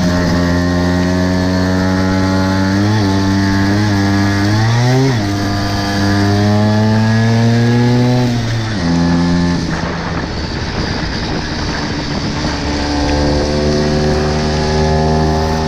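Tuned two-stroke Vespa scooter engine accelerating as it is ridden. Its pitch climbs, drops at a gear change about five seconds in and climbs again, then the throttle closes a little before halfway. It runs at a steady pitch near the end.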